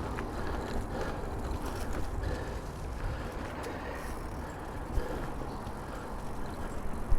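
Electric mountain bike rolling over a rough dirt trail: tyre rumble and wind on the microphone, with a couple of sharp knocks from the bike jolting over bumps, about five seconds in and again near the end.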